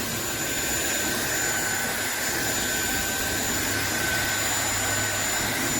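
SunSare cordless stick vacuum cleaner running steadily: an even rush of air with a thin, high whine from the motor.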